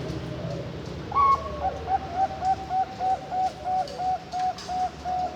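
Young Bangkok-strain zebra dove (perkutut) cooing. A higher opening note comes about a second in, followed by a fast, even run of short coos, about four a second.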